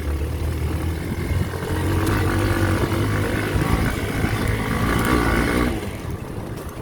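Trail motorcycle engine running under throttle while riding, pulling harder from about two seconds in and easing off a second before the end.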